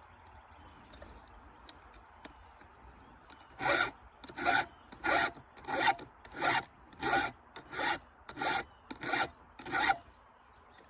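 Hand file rasping across a chainsaw chain: ten even strokes, about one and a half a second, starting some three and a half seconds in.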